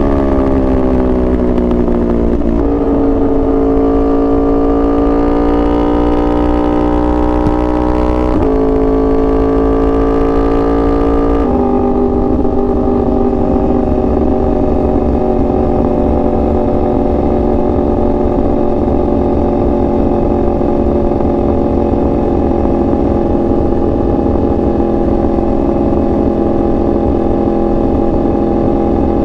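2021 Yamaha R1's crossplane inline-four running under the rider. Its note falls over the first couple of seconds, then holds. It steps up sharply about eight seconds in and drops again about three seconds later. It then holds one steady pitch while cruising, over a low rush of wind and road noise.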